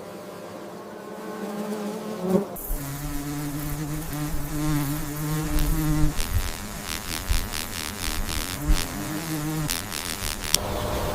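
A flying insect's wings buzzing close by, with a low, wavering pitch. It starts about two and a half seconds in, has a run of sharp clicks over its second half, and stops shortly before the end.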